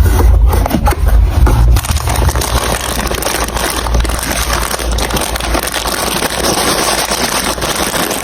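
Marbles rolling and clattering through a plastic marble-run track. There is a heavy low rumble for about the first two seconds, then a steady stream of small clicks and rattling.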